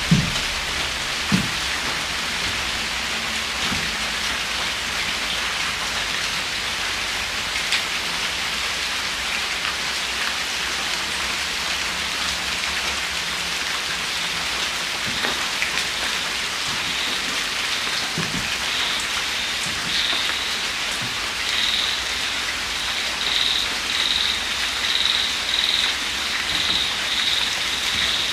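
Steady light drizzle falling, an even hiss with a few drip-like knocks. From about two-thirds in, a high pulsing call repeats a little more than once a second over the rain.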